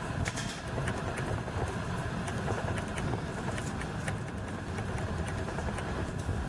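Interior sound of a JR Mito Line electric train: a steady low rumble with scattered faint clicks.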